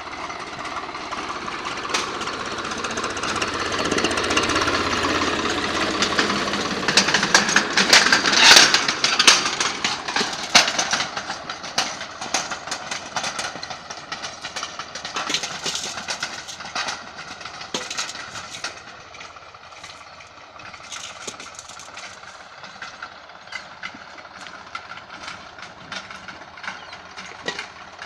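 Swaraj 744 FE tractor's three-cylinder diesel engine running under load, pulling an 11-tine tiller, with rapid clattering and knocks over the engine. It grows louder up to about eight seconds in, then slowly fades.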